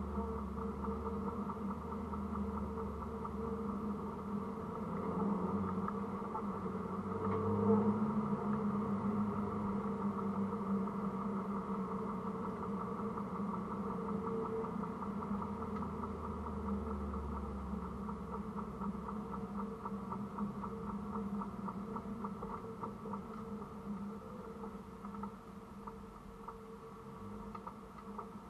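Mini Cooper S R53's supercharged four-cylinder engine idling steadily, with no revving, and a fine regular ticking over it. The sound grows fainter toward the end.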